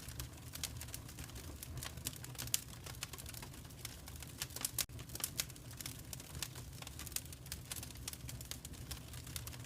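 Fire crackling in a fireplace: a dense, irregular run of sharp crackles and pops over a low, steady rumble, with a few louder pops about two and a half seconds and five seconds in.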